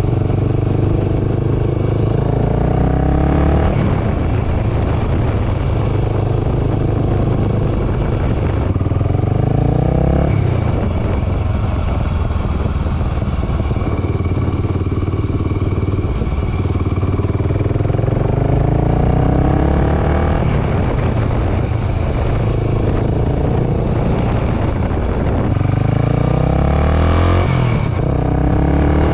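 Honda GB500's single-cylinder 500cc four-stroke engine running and revving, its pitch climbing in several long rises and falling back between them, about four times.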